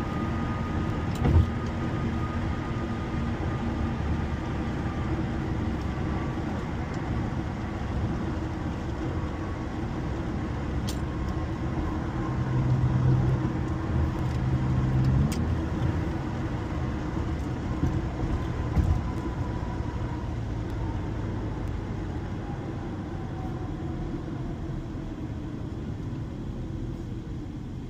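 Honda car driving, with steady engine and road noise. A short knock comes about a second in, the engine hum grows louder around the middle, and its tones fall steadily near the end as the car slows.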